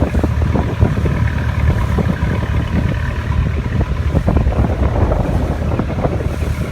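Glass-bottom boat's engine running steadily under way, with wind buffeting the microphone and frequent irregular thumps.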